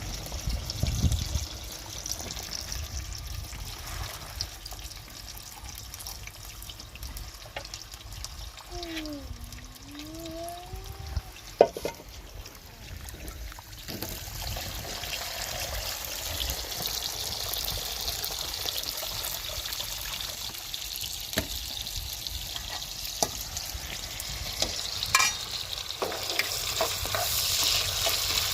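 Food frying in a pan, a steady sizzling hiss that grows louder about halfway through, with scattered clicks and knocks, the sharpest a little before the middle. A short swooping tone, falling then rising, sounds once near the middle.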